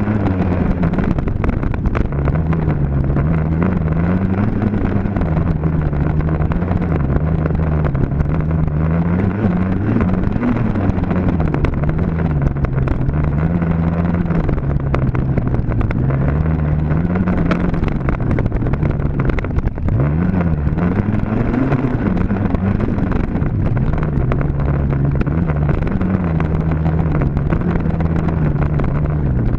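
Dirt bike engine running continuously, its pitch rising and falling every second or two as the throttle is opened and rolled off.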